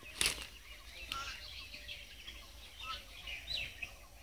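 Small birds chirping on and off in the background, with a short loud rustle just after the start.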